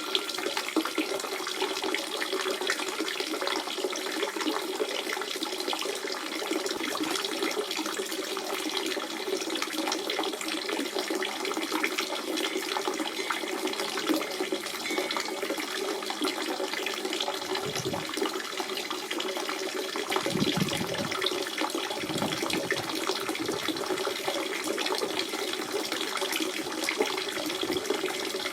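Natural spring water running and splashing in a steady stream, with a few brief deeper gurgles about two-thirds of the way through.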